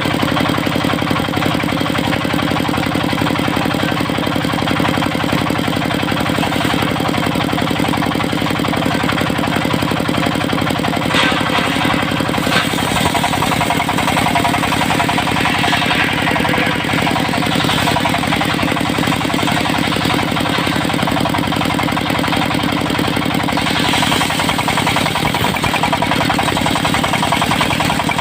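Engine of a portable circular sawmill running steadily at constant speed. From about eleven seconds in, a harsher hissing noise joins over the engine and swells twice.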